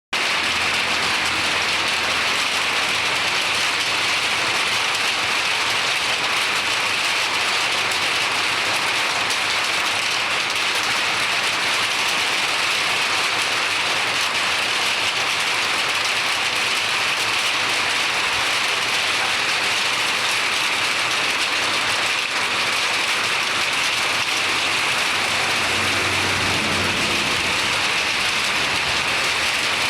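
Rain falling steadily, a dense, even hiss that stays at the same level throughout.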